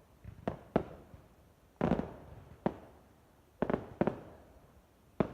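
Fireworks going off: about seven sharp bangs at irregular intervals, each dying away after it. The loudest and fullest comes about two seconds in.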